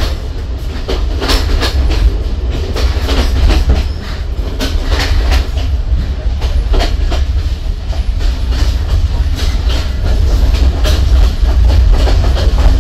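Passenger train running along the track, heard from on board: a steady deep rumble with irregular clicks and knocks of the wheels over the rails.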